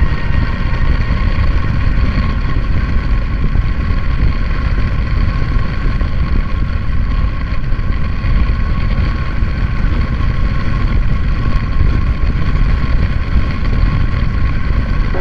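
Honda ADV160 scooter's single-cylinder engine running under way, mixed with wind rush on an action camera and played back at four times speed: a steady, loud noisy rush.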